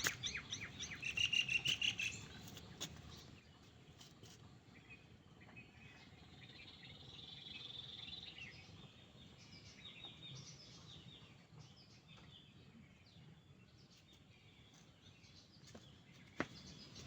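Birds chirping and calling, busiest in the first two seconds and then fainter and scattered, with a faint high insect-like buzz swelling in the middle.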